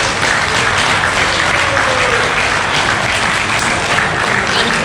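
Crowd applauding and clapping steadily for an award winner being called up.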